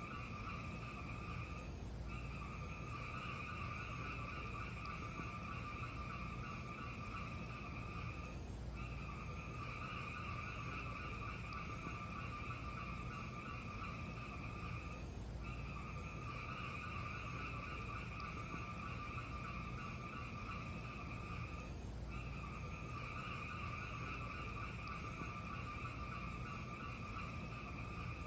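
Wood fire burning in a fireplace: a steady low rumble with a hiss that drops out for a moment about every six and a half seconds.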